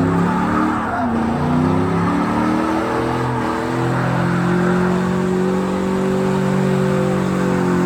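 Truck engine revving, its pitch rising and falling a few times, then held at a steady high rev from about four seconds in.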